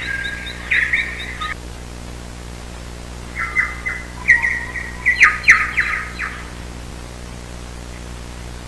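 A songbird singing: a burst of chirps and quick trills in the first second and a half, then a longer phrase of chirps and trills from about three to six seconds in, over a faint steady hum.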